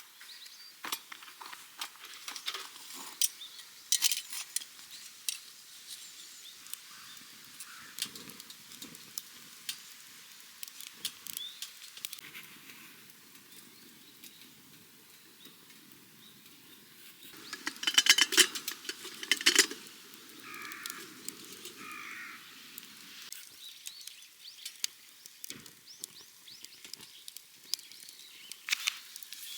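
Small wood fire crackling, with irregular sharp pops and a brief burst of loud crackles partway through.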